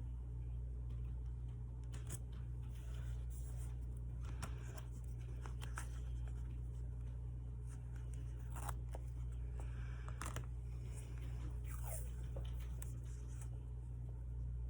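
Scattered light rustles and clicks of paper and stationery being handled, over a steady low hum.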